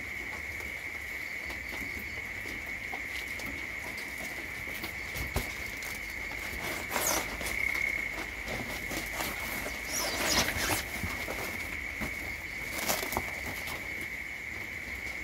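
Pattering and rustling, with three louder noisy bursts, over a steady high-pitched drone of insects.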